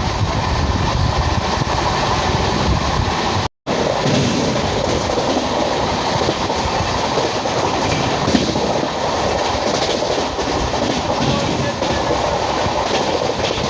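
Running noise of an Indian Railways express train of LHB coaches on the move: a steady rumble and rail noise. The sound cuts out completely for a moment about three and a half seconds in.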